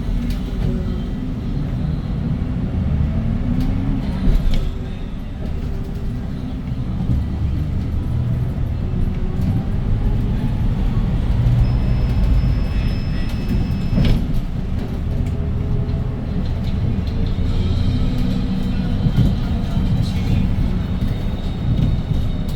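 Inside the cabin of a Hyundai Green City city bus under way: its CNG six-cylinder engine running through the gears over steady road rumble, with a few sharp knocks and rattles.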